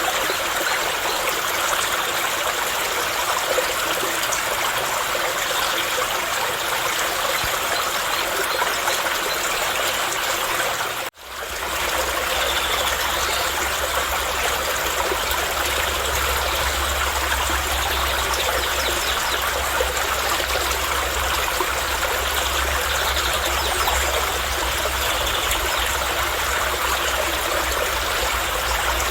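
Steady flowing water of a stream running over stones, a continuous rushing and trickling. About eleven seconds in it drops out for a split second, then resumes with a low rumble added underneath.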